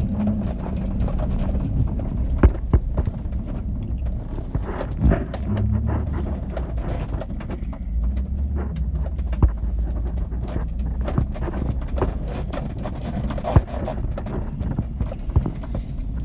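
Chevrolet Silverado's 5.3-litre Vortec V8 running at low speed with a steady low rumble, while irregular knocks, clicks and rattles come as the truck bumps along a dry riverbed.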